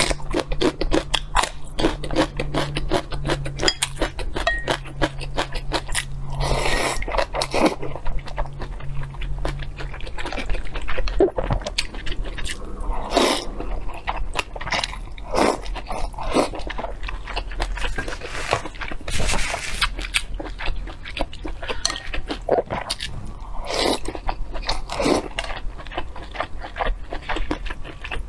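Close-miked eating sounds: crunchy chewing of a bite of okra and then of sauce-coated beef. Fast crackly clicks run throughout, with several louder, noisier mouthfuls.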